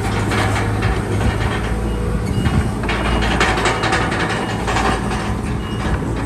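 Crawler bulldozer's diesel engine running steadily, with repeated metallic clanking from its steel tracks.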